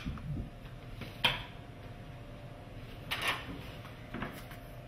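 Faint indoor room tone with a steady low hum, broken by a few brief knocks or handling sounds.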